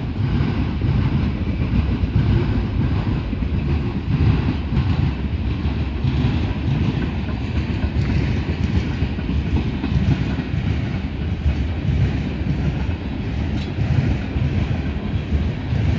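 Freight train cars, open-top hoppers and gondolas, rolling past: a low, steady rumble of steel wheels on the rails.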